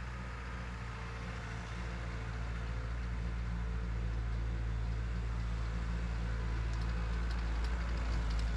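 Cat 247 skid steer's diesel engine running steadily at idle, with faint rapid clicking starting near the end.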